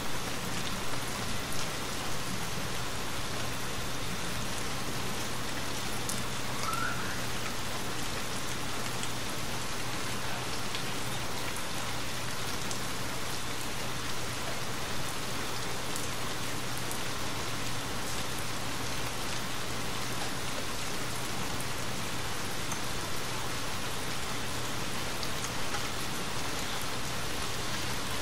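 Steady rain falling, with faint scattered ticks of drops.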